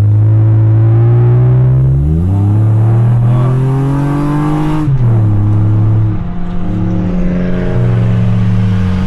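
Honda Accord engine and exhaust under acceleration: the note climbs in pitch for a few seconds, drops abruptly about five seconds in as the car shifts gear, then runs steadily at a lower pitch.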